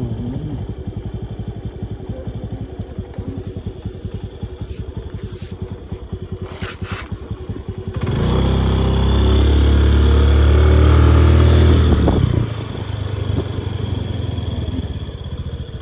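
Motorbike engine running on the move with a steady, rapid pulse. About eight seconds in it opens up, much louder and steady for about four seconds, then drops back to the earlier level.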